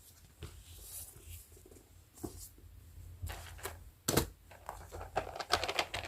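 Small handling sounds: soft rustling with scattered light clicks and taps, a sharper knock about four seconds in and a quick run of small clicks near the end.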